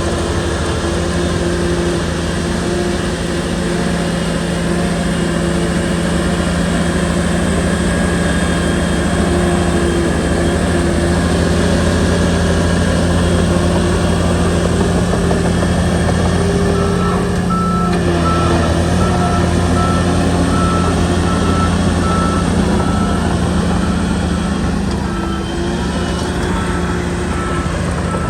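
Shantui bulldozer's diesel engine running steadily under load. In the second half a reversing alarm beeps at an even pace.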